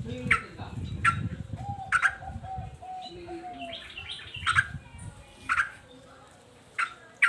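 Male yellow-vented bulbul (trucukan) calling: a quick run of short, repeated arched notes in the first few seconds and a brief higher chatter about four seconds in. Sharp, loud clicks sound roughly once a second throughout.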